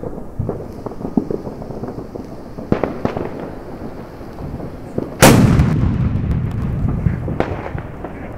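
Cobra 6 flash-powder firecracker going off with one very loud bang about five seconds in, its report echoing and rumbling away over the next couple of seconds. A few smaller cracks and pops come before it.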